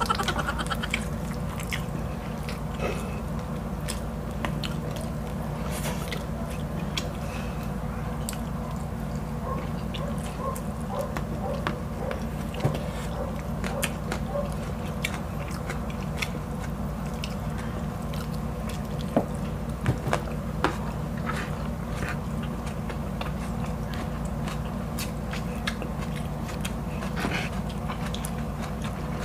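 Close-up eating sounds: chewing and biting with many small scattered clicks of mouth and fingers on food, over a steady low hum.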